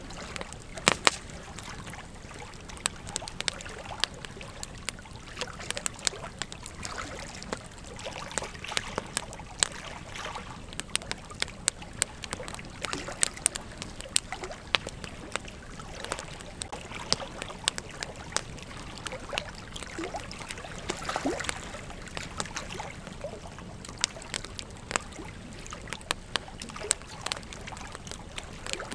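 Campfire crackling, with frequent irregular sharp pops and snaps over a steady background hiss.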